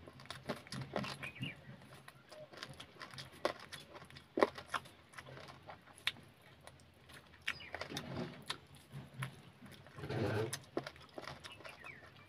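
Close-up mukbang eating sounds: wet chewing, lip smacks and mouth clicks from a man biting chicken on the bone and eating rice by hand. Irregular sharp clicks, with a louder, longer stretch of chewing about ten seconds in.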